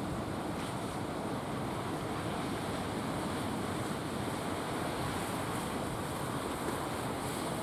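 Strong wind and sea waves: a steady rushing noise with no breaks.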